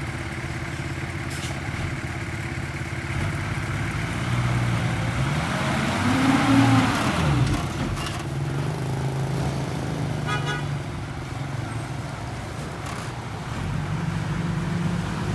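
Construction machine's engine running steadily, revving up and back down about six seconds in. A short high beep or toot sounds about ten seconds in.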